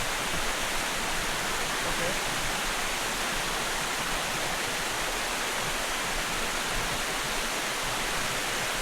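A small waterfall pouring steadily, an even rush of falling water.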